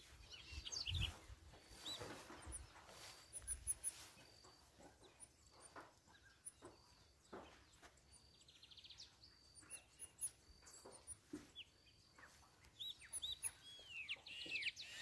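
Faint songbirds chirping and whistling, with a rapid trill about nine seconds in and a cluster of rising and falling whistles near the end. A few low thumps from wind or handling in the first seconds.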